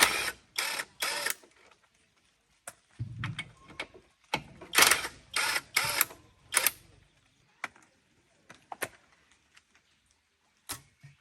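Irregular knocking and clattering of hand tools and parts during tractor repair work: a few quick strokes at the start, a duller low knock about three seconds in, a busier run of strokes in the middle, then scattered single clicks.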